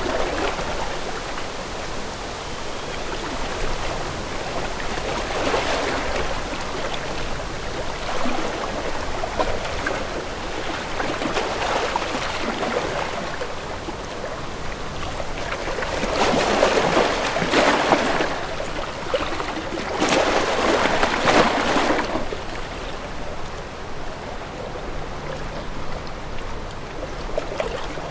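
Sea water washing and lapping against a sailing boat's hull in a continuous wash, swelling louder twice in the second half.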